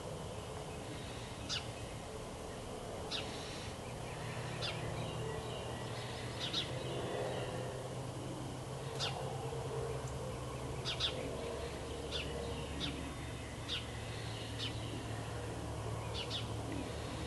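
Short, sharp bird chirps, about a dozen at irregular intervals, over a steady low hum and background hiss.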